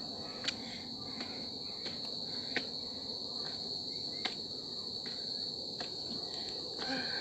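Steady high-pitched insect chorus of crickets or cicadas drones without a break. It is broken by a few sharp clicks spaced a second or two apart.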